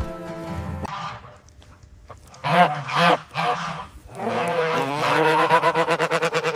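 Animal calls: two short calls followed by one long call that pulses rapidly, after background music fades out about a second in.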